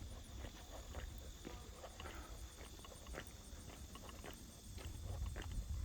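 Insects, crickets or katydids, calling steadily with a high drone and a fast regular pulse, under the irregular crunch of a hiker's footsteps on the trail.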